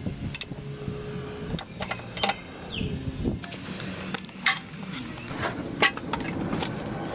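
Scattered metallic clinks and clicks of hand tools and bolts handled against metal, at an irregular pace.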